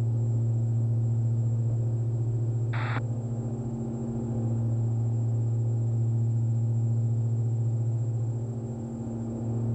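Cabin drone of a Diamond DA42 NG's twin engines and propellers during the takeoff climb, steady and low with a slight swell and dip in loudness. A brief click about three seconds in.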